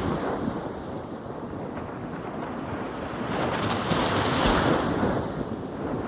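Ocean waves breaking and washing up a beach: a surf surge that builds to a peak a little past halfway and eases off near the end.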